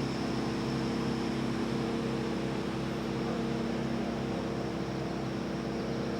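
A motor or engine running steadily: a constant hum with several held tones over a noisy wash, unchanging throughout.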